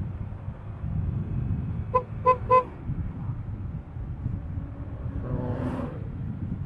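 Three short, quick vehicle-horn beeps about two seconds in, over a steady low rumble of wind and engine noise from riding at speed. A fainter, longer pitched tone follows about three seconds later.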